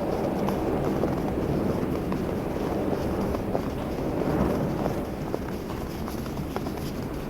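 Wind blowing steadily, a dense low rushing with faint scattered crackles over it.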